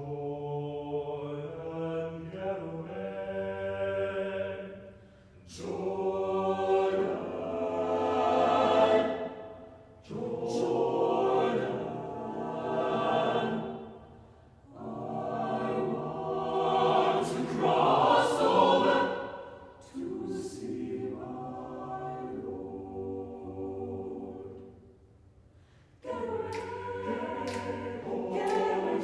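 Choir singing a spiritual a cappella, in swelling phrases of four or five seconds with short breaks between. There is a softer, steadier passage in the last third, then a short pause before the voices come back in fuller near the end.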